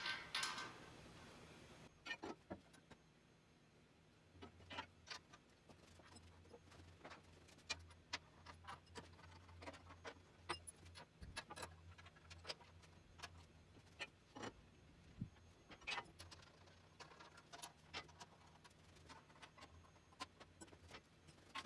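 Faint, scattered light clicks and taps of tools and small parts being handled during mill reassembly, under a faint low hum through the middle.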